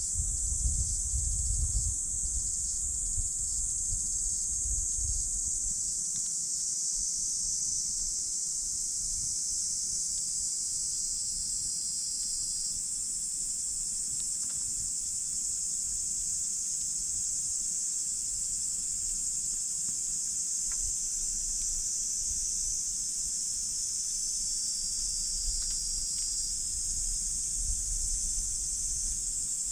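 A steady, high-pitched chorus of insects, with a few faint crackles from a campfire. A low rumble dies away in the first few seconds.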